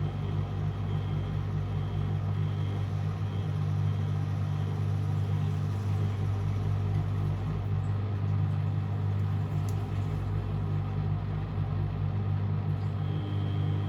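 Beko WMD 46160 washing machine running a boil-wash cycle: a steady low hum, with a faint pulsing whine that drops out about six seconds in and comes back near the end.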